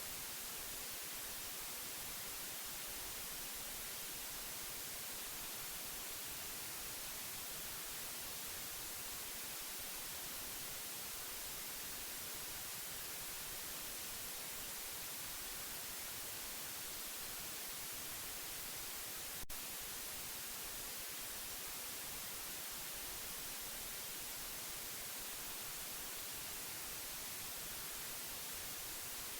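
Steady white-noise hiss, even and unchanging, bright and treble-heavy. A single sharp click about two-thirds of the way through.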